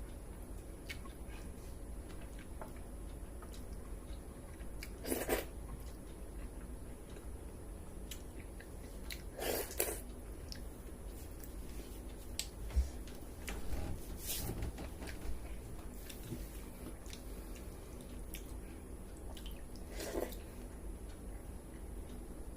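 A person eating pakhala bhata (rice soaked in water) with chicken curry close to the microphone: soft chewing and small wet mouth clicks, with four louder, brief noisy sounds spread through the stretch.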